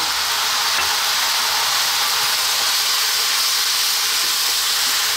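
Chili vegetables, chopped tomatoes and tomato paste sizzling in a hot pan: a steady, even hiss.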